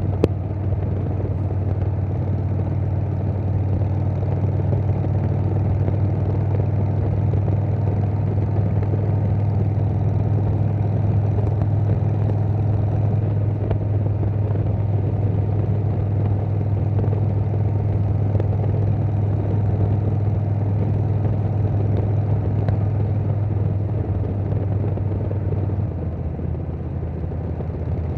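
Harley-Davidson Milwaukee-Eight V-twin with Vance & Hines Big Radius 2-2 exhaust, running steadily under way on the motorcycle, easing off slightly near the end.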